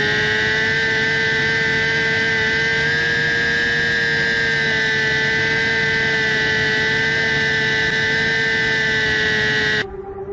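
Kawasaki Ninja H2R's supercharged 998 cc inline-four running flat out at a steady high pitch, heard from on board at about 400 km/h. Near the end the sound cuts off suddenly to a quieter, lower-level tone.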